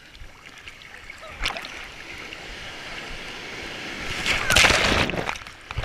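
Ocean surf: a wave builds and breaks in a loud rush of water about four seconds in, then dies down.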